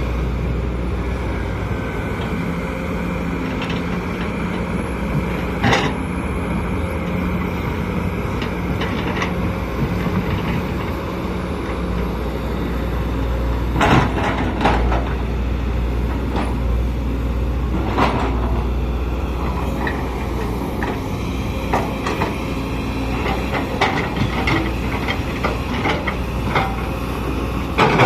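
Sumitomo SH210LC crawler excavator's diesel engine running steadily under load, with occasional sharp metallic clanks and knocks, coming more often near the end.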